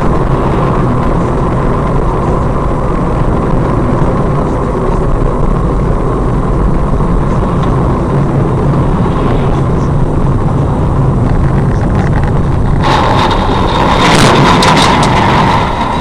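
Car on the move: steady engine and road noise. About thirteen seconds in, a louder, harsher noise full of sharp clicks and rattles comes in for about three seconds, then eases off.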